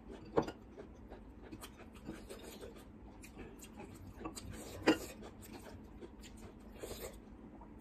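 Close-up eating sounds: chewing and small wet mouth clicks as rice and chicken drumstick in gravy are eaten by hand, with two sharper clicks, one under a second in and one about five seconds in.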